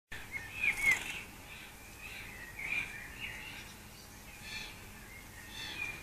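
Small garden birds chirping and twittering in short bursts of high notes every second or so. A sharp click comes about a second in, the loudest moment.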